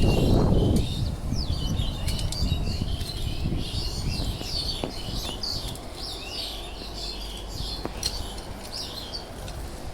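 Birds chirping, many short overlapping calls. A brief low rumble in the first second is the loudest sound.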